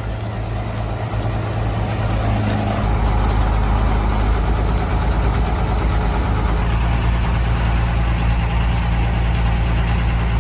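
Heavy truck engine running steadily, a low hum that builds up over the first three seconds and then holds.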